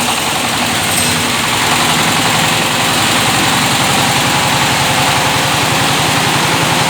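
12.5 kW diesel engine of a maize mill running steadily after start-up, with a fast even firing beat. It gets a little louder about a second or two in, then holds.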